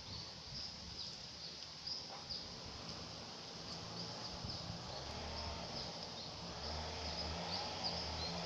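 Small birds chirping, with many short high chirps a few times a second. Faint low steady tones come in under them from about halfway through.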